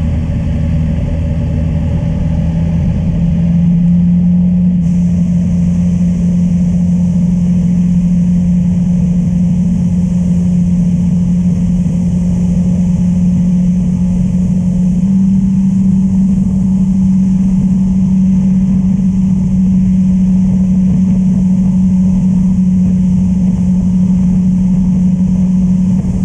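Honda Transalp 600's V-twin engine running at steady cruising revs under way, with wind and road rush. The engine note rises a little about three seconds in and again about halfway through.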